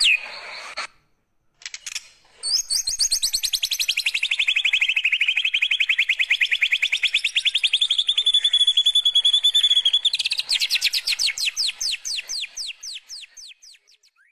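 White-rumped shama (murai batu) singing a long, fast canary-like trill ('kenarian'). After a short pause the trill starts, falls in pitch and then holds steady. Near the end it breaks into wider sweeping notes and fades out.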